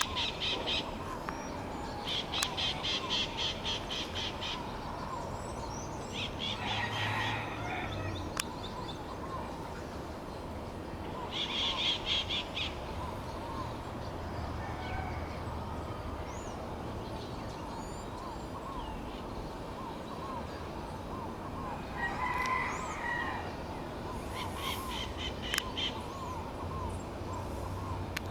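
Birds calling: a rapid, buzzy trill repeated every several seconds, with other calls and chirps between, over a faint low rumble.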